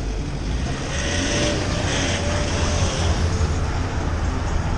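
Motorcycle riding on the road: a steady engine and wind rumble on a rider-mounted microphone, with a faint engine note that rises and falls around the middle.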